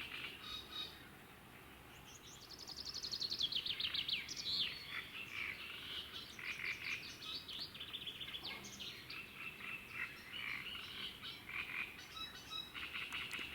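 Songbirds singing and frogs calling at dusk: a chorus of short chirps and pulsed calls, with a fast downward-sliding bird trill about two seconds in, the loudest part.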